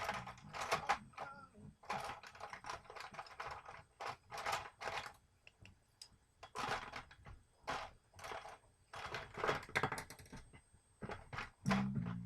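Short bursts of rapid clicking and clattering from small hard objects, about a dozen clusters each under a second long. Low music comes in near the end.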